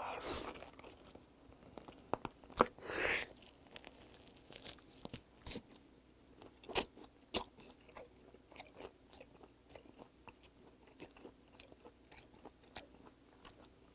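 A person biting and chewing a large slab of raw olive flounder sashimi, close to the microphone: many wet mouth clicks and smacks, with two longer, louder chewing noises near the start and about three seconds in.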